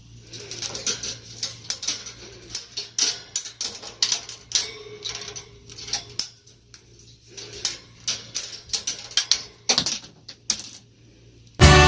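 A pet parrot making a rapid run of short clicks, chirps and squeaks, with gaps between them. Music starts suddenly near the end.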